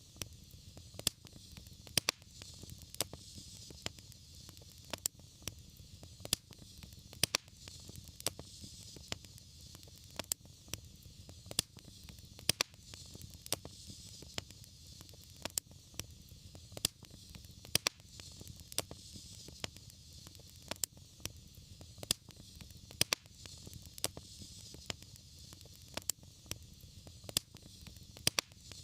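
Wood fire crackling, with frequent irregular sharp pops over a steady low rumble and soft hiss.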